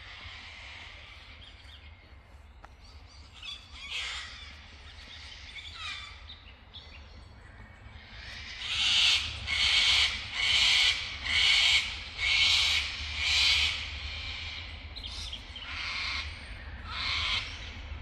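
A bird giving loud, harsh calls: six in an even series about halfway through, then two more near the end, with fainter calls before them.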